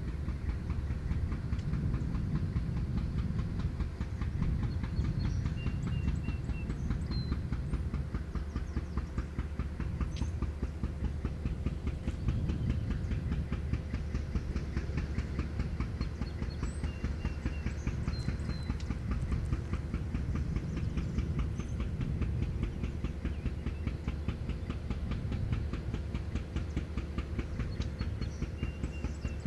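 Freight train: a steady low rumble with a fast, even clicking running through it. Short high chirps come and go every several seconds.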